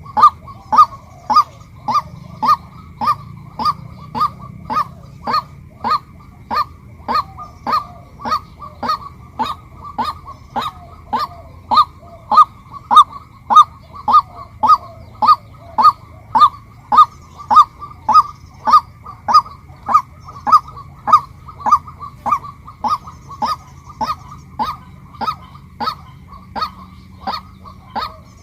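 Female white-breasted waterhen calling: one short, loud note repeated evenly about twice a second.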